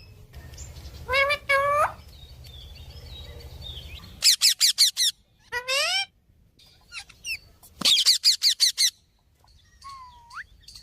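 Parrot calling: rising squawks about a second in and again near six seconds, and two fast runs of sharp repeated chirps, about four and eight seconds in. A low hum sits under the first four seconds and then stops.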